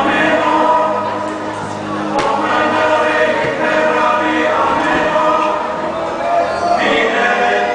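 Played music with a choir of voices singing.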